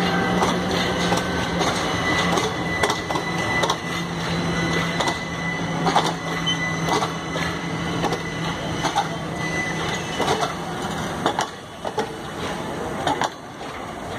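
Indian Railways ICF passenger coaches rolling past, their wheels clicking irregularly over the rail joints. A steady low hum runs under it and fades out about eleven seconds in.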